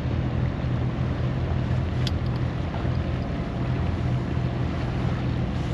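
Engine running steadily at idle, a continuous low drone, with wind on the microphone and a faint click about two seconds in.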